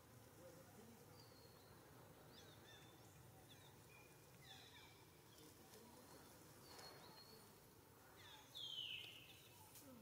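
Faint outdoor birdsong: scattered short high chirps, with one louder call falling in pitch near the end.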